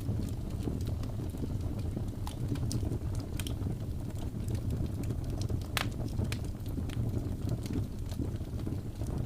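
Wood fire in a fireplace crackling, with scattered small pops and one sharper pop about six seconds in, over a steady low rumble.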